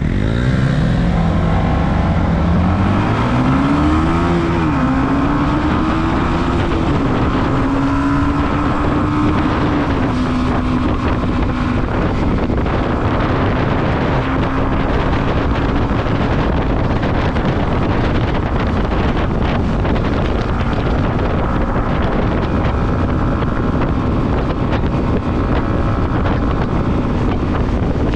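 Motorcycle engine accelerating hard, its pitch climbing and dropping back at two upshifts in the first few seconds, then holding a steady drone at cruising speed. Heavy wind rush on the microphone runs under it.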